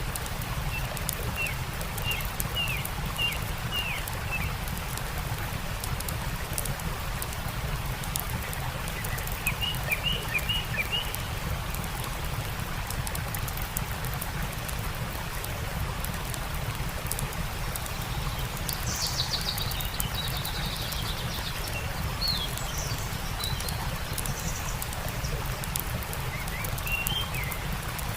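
A stream running steadily under a campfire's fine, continuous crackle, with small songbirds chirping in short bursts of quick notes several times and a higher trill about two-thirds of the way through.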